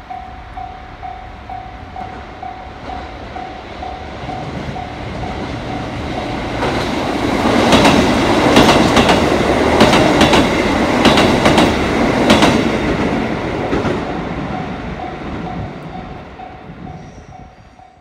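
Japanese level-crossing warning bell ringing in a steady, rapid ding-ding rhythm while a KiHa 85 series diesel express train passes. The train builds to its loudest in the middle, with a run of sharp clacks from the wheels over rail joints, then fades away near the end, and the bell can be heard ringing on throughout.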